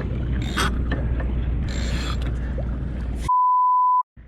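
Wind and water noise with two short rushing bursts, then a steady one-kilohertz censor bleep of under a second that cuts out all other sound, ending in a moment of dead silence.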